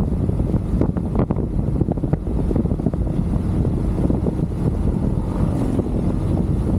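Wind buffeting the microphone of a moving motorcycle, a steady low rumble with vehicle noise underneath.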